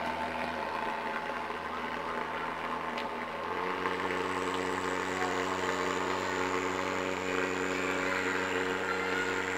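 Thermal fogger on a mosquito fog truck running with a steady drone. About three and a half seconds in, the tone shifts higher and gets a little louder, and a thin high whine joins it.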